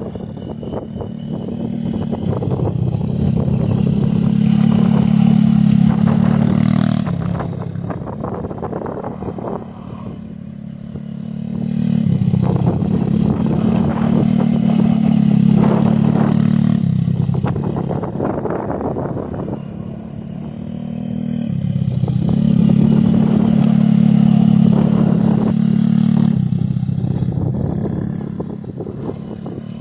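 Pit bike engine running at a steady note, swelling louder and fading three times as the bike circles past and away again.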